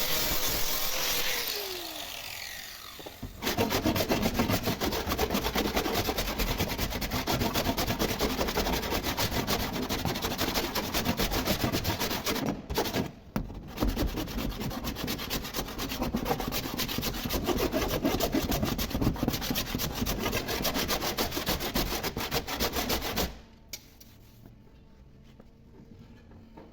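Rapid abrasive rubbing on a car body panel, the surface being worked during dent repair. It starts about three seconds in, breaks off briefly midway, and stops suddenly near the end.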